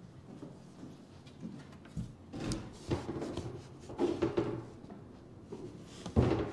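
Knocks and scraping from the panels of a ready-to-assemble kitchen cabinet box being handled. The first two seconds are quiet, then come a series of irregular knocks and rubs, with the loudest knock near the end.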